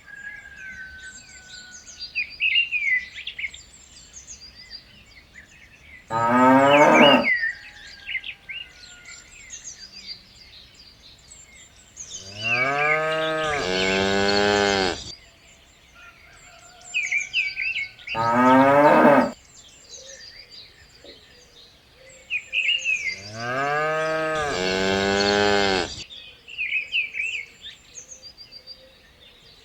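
Cows mooing: four long calls, two short and two drawn out, with small birds chirping between them.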